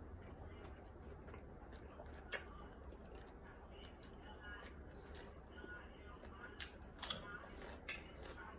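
Quiet eating sounds: faint chewing with a few short sharp clicks, the loudest a little over two seconds in and a cluster around seven to eight seconds in.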